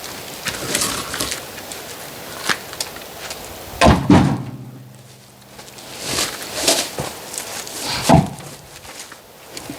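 Oak firewood logs being handled: heavy wooden thuds about four and eight seconds in, with lighter knocks and scraping between.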